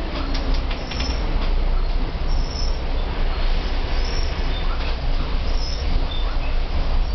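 Volvo B10M Mk II bus with its mid-underfloor engine and ZF automatic gearbox, driving along and heard from inside the saloon: a steady low engine and road drone. Faint brief high squeaks now and then.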